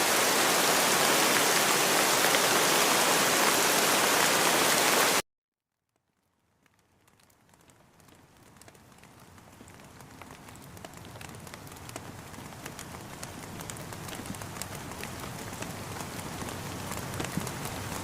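Steady, dense rain that cuts off abruptly about five seconds in. After a second of silence, rain fades back in slowly, with individual drops tapping, and grows louder.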